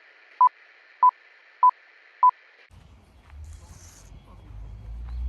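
Four short electronic beeps at one steady pitch, evenly spaced about 0.6 s apart, over a faint hiss. The beeps stop abruptly and a low rumble takes over, growing louder toward the end.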